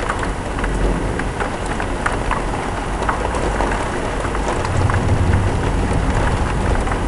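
Heavy thunderstorm rain pouring down steadily, with scattered sharp drop ticks on hard surfaces close by. A low rumble swells about two-thirds of the way through.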